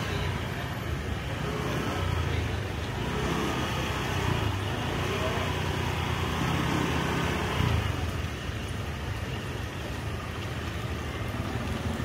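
Street traffic: engines of passing cars and motorbikes running with a steady, shifting hum over road noise.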